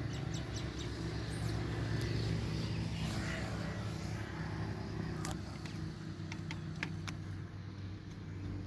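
Stationary diesel engine running steadily with a low, even beat, with a few sharp clicks over it.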